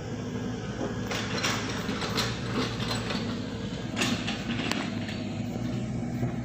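Heavy diesel machinery running steadily at road-repair work, with irregular rattling and several sharp clanks from about a second in.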